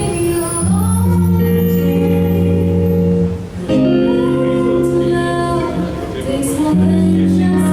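Live music with singing over sustained chords that change every couple of seconds, with a brief break about three and a half seconds in.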